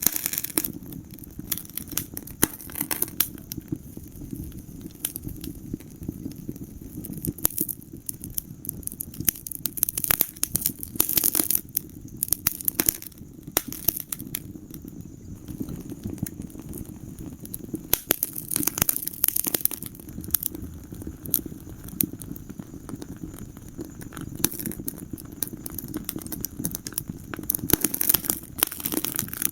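Wood fire burning in a fireplace: a steady low rumble of flames with dense, irregular crackles and pops, coming in clusters.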